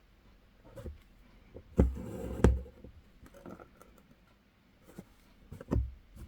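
Embroidery needle pushed through fabric stretched in a hoop: a few sharp taps, the loudest about two and a half seconds in, with a short rustle of thread being drawn through between them.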